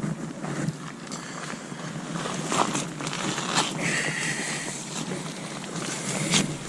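Shoes scraping and sliding on loose dirt and gravel as people scramble down a steep bank, with scattered crunches and wind noise. A brief high tone sounds about four seconds in.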